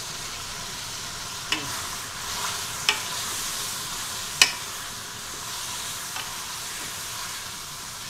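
Chicken pieces sizzling as they fry in a metal pot while a wooden spatula stirs them, knocking sharply against the pot three times, the third knock the loudest.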